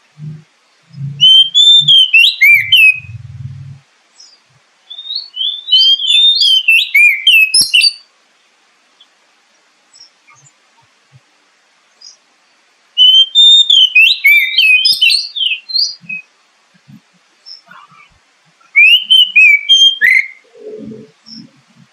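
Oriental magpie-robin (kacer) song: four loud bursts of quick, varied whistled phrases, separated by pauses. It is a lure song played to stimulate a caged magpie-robin to sing.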